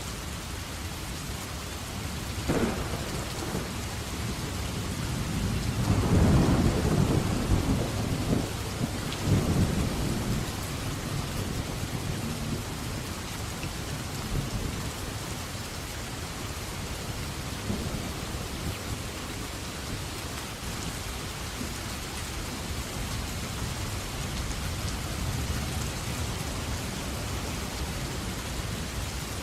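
Steady heavy rain with thunder: a sharp crack about two and a half seconds in, then a loud rolling rumble a few seconds later that fades over several seconds.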